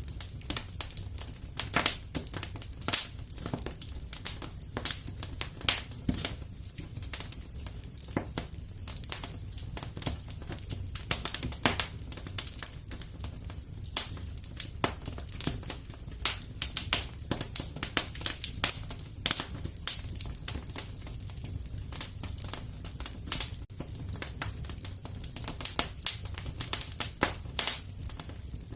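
Wood fire crackling in a fireplace: irregular snaps and pops, several a second, over a low steady rumble.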